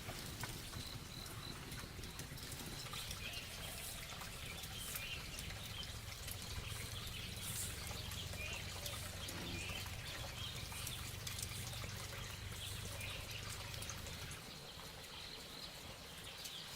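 Outdoor natural ambience: scattered short bird or insect chirps over a low steady rumble, which drops away about fourteen seconds in.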